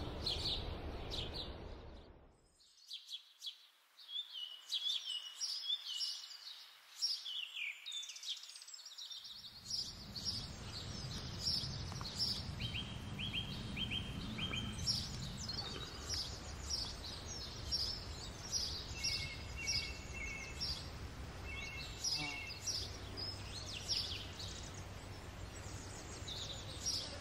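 Wild birds chirping and singing: many short high chirps with a few quick trills. A steady low background noise comes in about nine seconds in.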